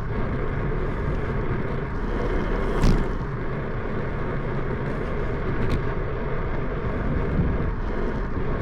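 Steady rushing wind and road noise from a bicycle being ridden, with wind buffeting the camera microphone and a light click about three seconds in.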